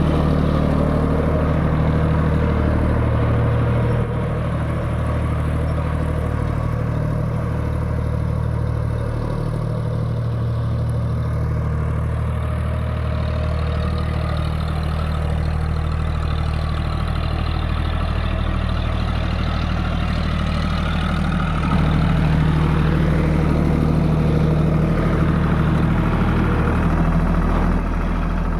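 John Deere 5050D GearPro tractor's three-cylinder diesel engine running steadily, getting a little quieter about four seconds in and louder again about twenty-two seconds in.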